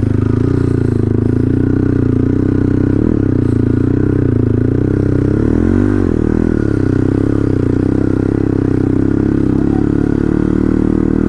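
Dirt bike engine running at steady low revs, its pitch dipping briefly twice, about three and six seconds in.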